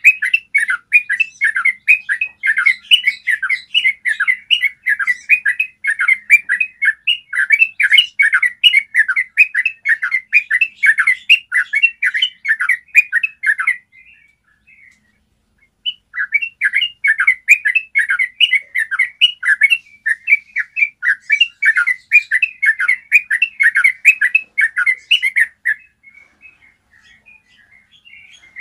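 Yellow-vented bulbul singing long, rapid rolling runs of bubbly notes, pausing for about two seconds midway and again near the end.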